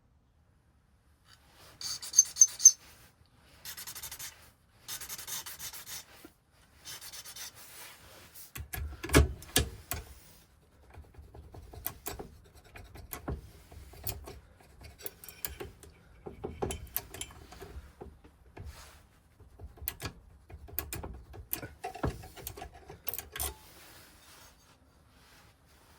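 A handful of short rubbing, filing-like scrape strokes on metal, then a run of irregular clicks and light knocks, from hand work on a key or lock.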